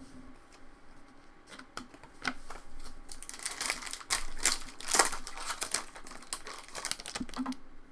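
Foil trading-card pack wrapper crinkling and tearing as a pack is opened and the cards are handled, a run of dense crackling rising about halfway through.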